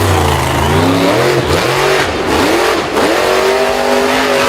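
Engine revving sound, its pitch rising and falling again and again.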